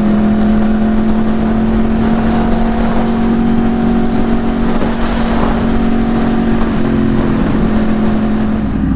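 Yamaha R1 sportbike engine running at steady high revs at road speed, over a rush of wind noise. The steady note breaks off near the end.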